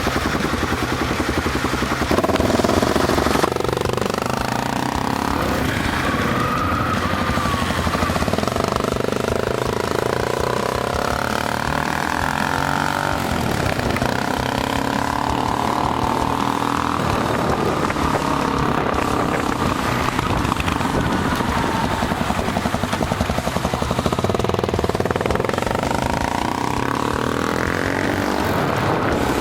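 Yamaha Tricker S's 250cc single-cylinder engine running under way, its pitch rising and falling as the revs change through gear changes, over steady wind rush.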